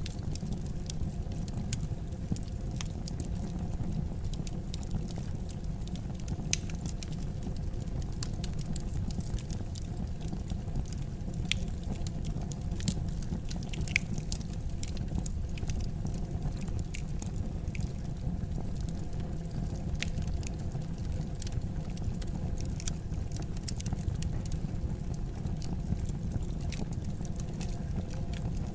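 Wood fire burning in a fireplace: a steady low rumble of the flames with frequent irregular crackles and small pops of the burning wood.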